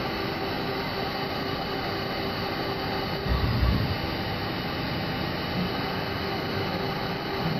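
CNC lathe running a deep-hole peck-drilling cycle: a steady machine whir with a faint steady tone running through it, and a louder low thump about three and a half seconds in.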